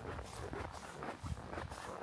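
Footsteps crunching through snow on a hiking trail, a steady walking rhythm of roughly two to three steps a second.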